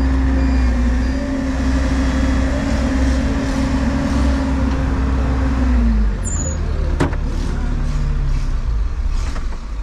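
A heavy engine running steadily with a low rumble; about six seconds in its hum drops in pitch, and a sharp click follows a second later.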